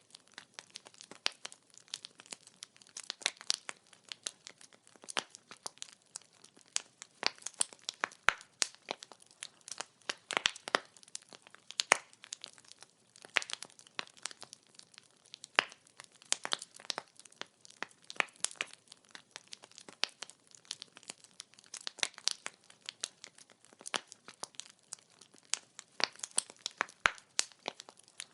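Wood fire crackling: logs snapping and popping in rapid, irregular clicks, with a few louder pops standing out.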